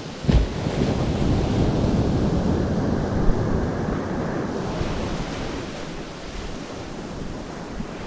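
Rushing wind and sea noise, with wind buffeting the microphone. It swells after a short thump just after the start, then slowly eases off.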